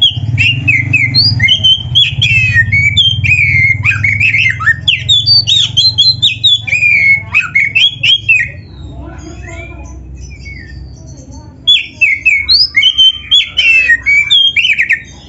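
Oriental magpie-robin (kacer) singing a fast, varied song of whistles and chatters packed with mimicked phrases of other birds. It breaks off about eight seconds in and starts again a few seconds before the end, over a steady low hum.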